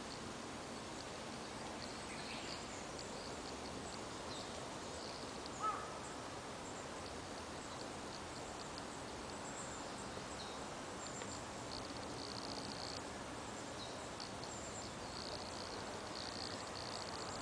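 Outdoor ambience with steady background hiss and many faint, short, high-pitched bird chirps, with one brief louder bird call about six seconds in.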